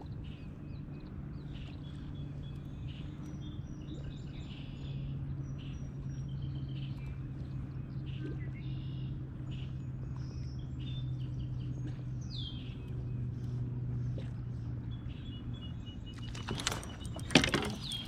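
Birds chirping and calling over a steady low hum. Near the end comes a short burst of loud, sharp clattering knocks.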